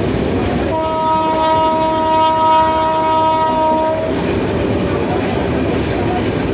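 Train horn sounding a chord of several steady tones for about three seconds, over the steady running noise of a moving train.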